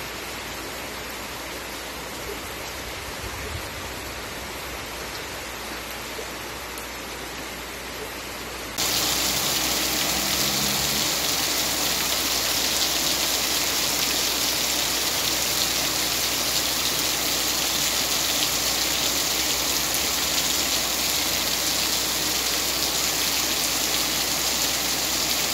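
Rain falling steadily. About nine seconds in it switches abruptly to a much louder, heavier downpour with a harsher hiss, which holds steady.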